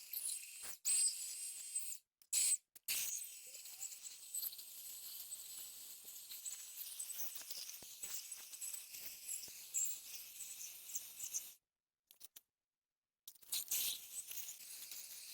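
Rustling and crackling of dry brush and leaves as vines and undergrowth are worked and cleared, with sharp crackles throughout. The sound cuts out abruptly to silence a few times.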